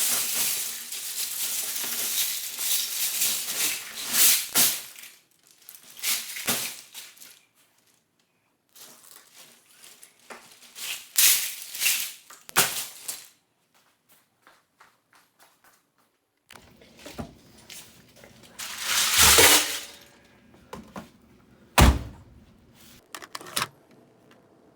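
Loose LEGO plastic pieces clattering and rattling against each other as they are handled. A dense run of rattling lasts about five seconds, then come several shorter bouts with quiet between, and a sharp thunk a little over twenty seconds in.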